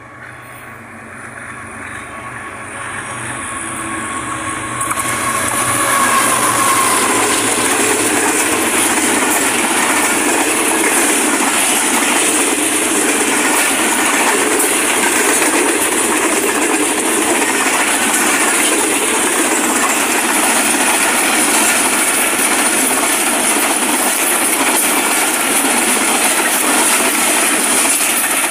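Express passenger train with a diesel locomotive approaching and passing close by at speed. The noise builds for the first six seconds or so as the locomotive nears, then the coaches' wheels run past on the rails in a loud, steady rush.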